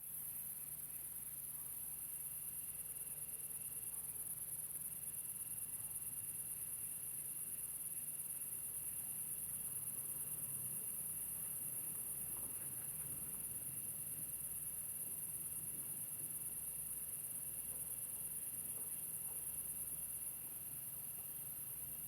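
Steady, high-pitched chorus of insects, typical of crickets, with a thinner steady trill lower in pitch that breaks off briefly about four seconds in. A faint low hum runs underneath, and the high chorus eases slightly near the end.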